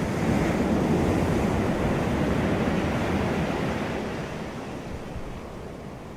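Ocean surf: a wave rushing in as a steady wash of noise, loudest in the first half and then fading away as it recedes.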